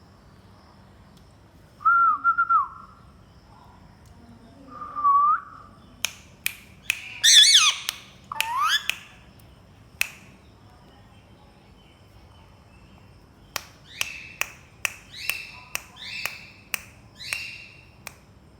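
Indian ringneck parakeets whistling and giving loud squawking calls mixed with sharp clicks. Near the end comes a quick run of short chirps and clicks, several a second.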